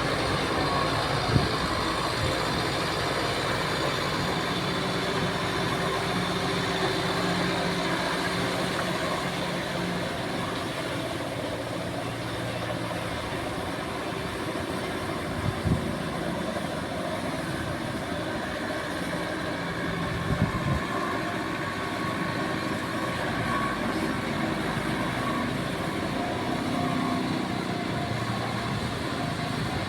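Kubota tractor's diesel engine running steadily, with a few short knocks.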